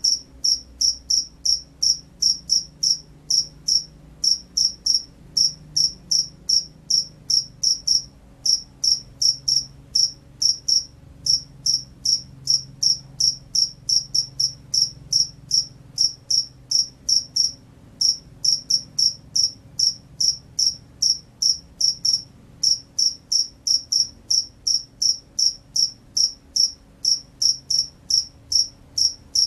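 Field cricket singing in quick, evenly spaced high chirps, about three to four a second, with a few brief pauses.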